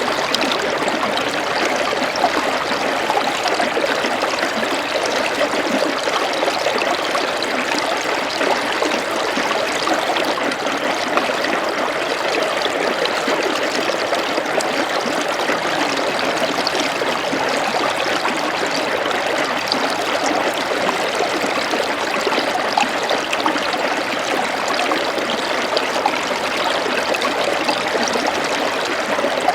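Flowing water from a small stream or channel, running steadily with a continuous rushing trickle.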